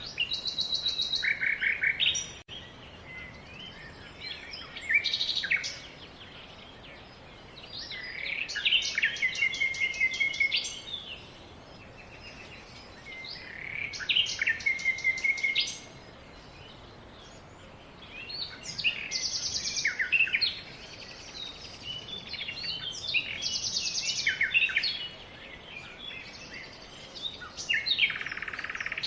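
Songbirds singing: a phrase of quick chirps and rapid high trills comes back about every five seconds, with quieter chirps from other birds in between.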